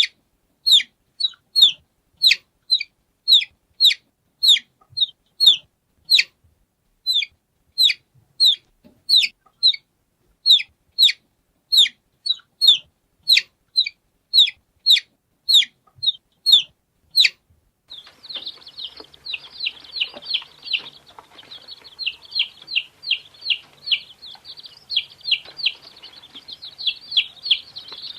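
Baby chicks peeping. First comes a run of separate, loud peeps that fall in pitch, a little under two a second. About 18 seconds in it changes to a dense chorus of many chicks peeping over one another.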